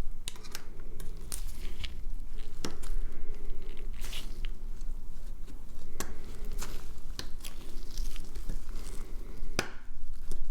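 Small hand tools working on a smartphone's parts: scattered sharp clicks and light scraping and crinkling, over a steady low rumble.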